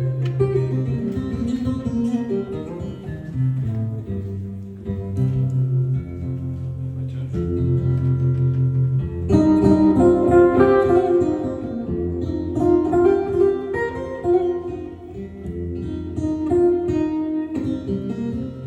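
Guitar playing a picked instrumental passage, melody notes moving over low bass notes that ring on for a second or more at a time.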